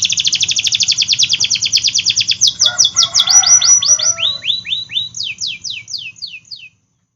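Domestic canary singing: a very fast trill of repeated downward-sweeping whistled notes, then slower, spaced sweeping notes, with a lower, rougher passage in the middle. The song cuts off near the end.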